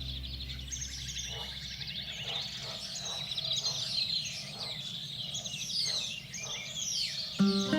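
Several small songbirds chirping, with many short falling notes overlapping, and a fast even trill that stops about three seconds in. Background music fades out at the start and comes back near the end.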